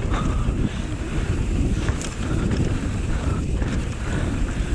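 Wind buffeting the action camera's microphone as a mountain bike rides fast along a trail, over a steady low rumble from the bike and tyres on the ground, with a few light knocks.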